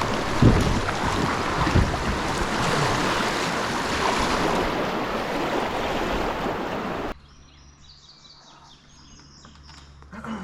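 Rushing river water and wind on the microphone as the kayak runs whitewater, a steady loud noise that cuts off abruptly about seven seconds in, leaving a much quieter stretch with faint chirps.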